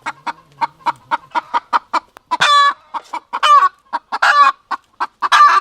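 Chicken clucking in a fast run of short clucks, then from about two seconds in breaking into loud squawking calls roughly once a second, a cackle rather than a crow.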